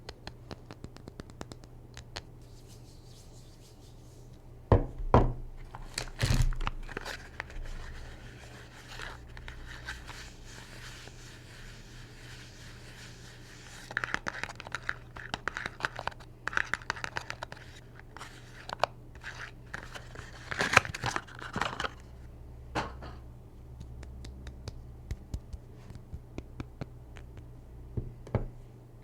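Soap being unpacked by hand: wrapping crinkling and tearing, with scratching and scattered clicks, and two louder knocks about five and six seconds in.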